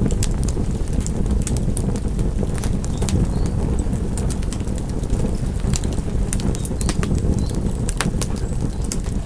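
Wood fire burning in a fireplace: a steady low rumble of flames with irregular sharp crackles and pops, several a second in places.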